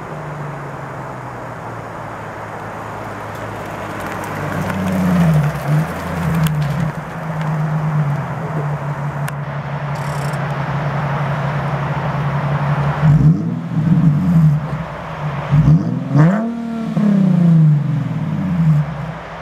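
Nissan 370Z's 3.7-litre V6 through an AAM short tail aftermarket exhaust, idling with a few light throttle blips about five seconds in, then revved hard twice in the last third, each rev rising and dropping back to idle.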